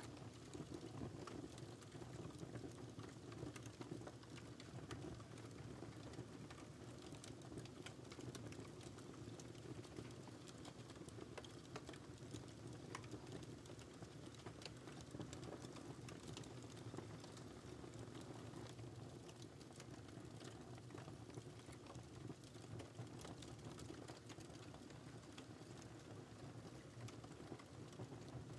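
Wood fire burning in a fireplace, crackling: a steady low hiss of the flames with frequent small, sharp pops and snaps throughout, all fairly faint.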